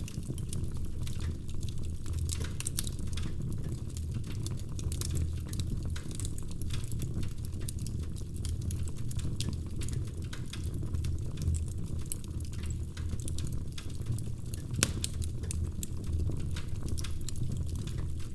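Wood fire crackling in a fireplace: many small irregular pops and snaps over a steady low rumble of the flames, with one louder pop about three-quarters of the way through.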